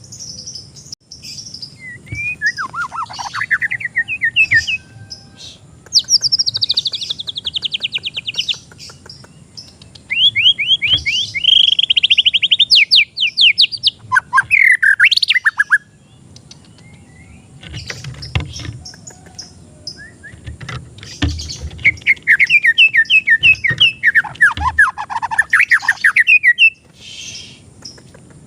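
White-rumped shama (murai batu) singing: several loud phrases of rapid repeated notes and sweeping whistles, with short pauses between them.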